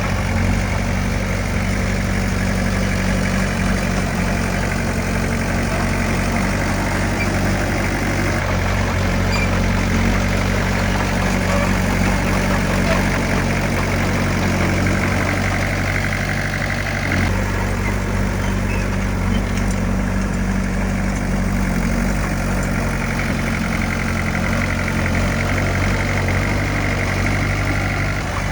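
Heavy construction machine's diesel engine running steadily at a constant speed, with a short break in the sound a little past halfway.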